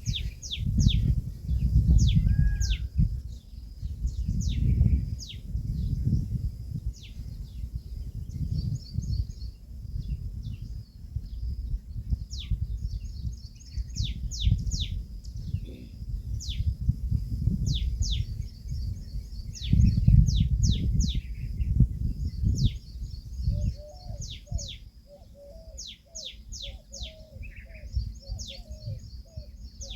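Birds calling outdoors: many quick, high, downward-sweeping chirps repeated throughout, over a low rumble that comes and goes. From about three-quarters of the way in, a rapid run of lower, short repeated notes joins them.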